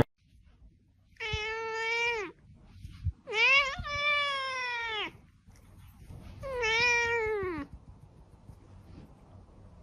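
Domestic cat meowing three times, long drawn-out meows that rise slightly and fall off at the end, a second or so apart.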